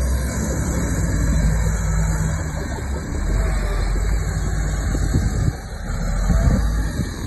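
Heavy diesel earthmoving machine running steadily with a low engine rumble, with a few short knocks in the second half.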